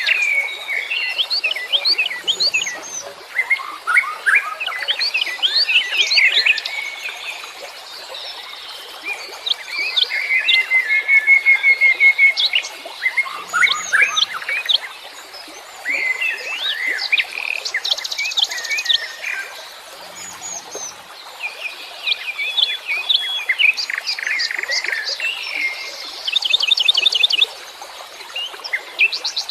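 Wild songbirds of several kinds singing and chirping at once: quick overlapping chirps, whistled phrases and fast trills, with one buzzy trill held for about two seconds near the middle.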